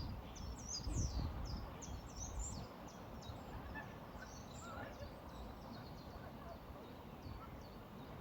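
Small songbirds chirping: many short, high, quickly falling chirps in rapid succession. Underneath runs a low rushing background of river water and breeze, swelling briefly about a second in.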